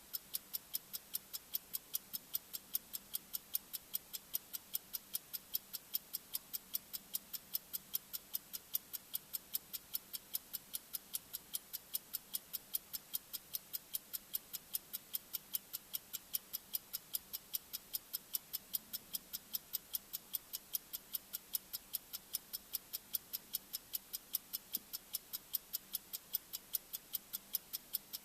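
Bomb-timer ticking sound effect: sharp, high-pitched ticks at a fast, even rate, alternating slightly louder and softer like a tick-tock, over a faint low hum.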